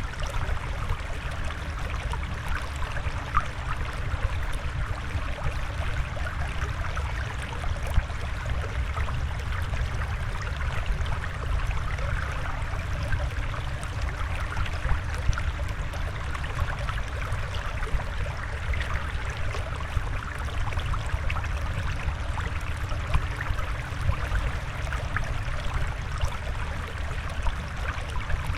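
Flowing water trickling steadily, with a low rumble underneath and no change in level.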